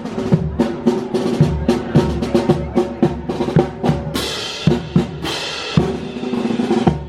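Marching band playing, led by snare and bass drums over sustained horn tones, with cymbal crashes about four and five seconds in.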